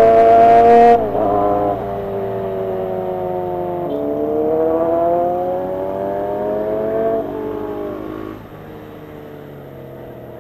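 Kawasaki ZX25R's 250 cc inline-four engine revving high. The pitch falls abruptly about a second in, climbs steadily again for a few seconds, then drops to a lower, quieter, steadier note near the end.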